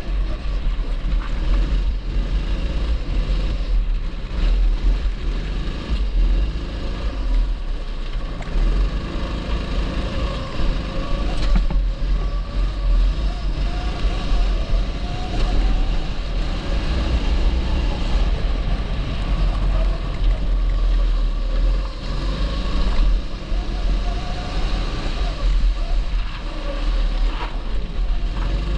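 TB rental kart's 270cc engine running at speed, its pitch rising and falling again and again as the throttle is worked through the corners, over a heavy low rumble.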